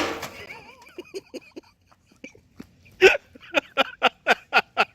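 The tail of a loud noise fades out at the start, then about three seconds in a person starts laughing in short rhythmic bursts, roughly four a second.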